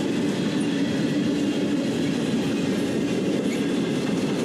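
Freight train rolling past on the rails, a steady noise of wheels and cars moving along the track.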